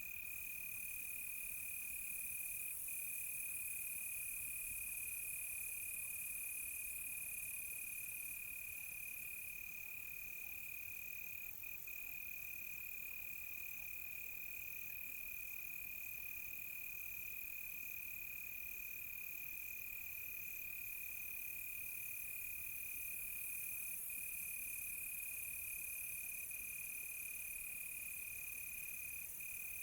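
Night chorus of crickets: one continuous high, steady trill, with a faster, fainter pulsing chirp higher above it.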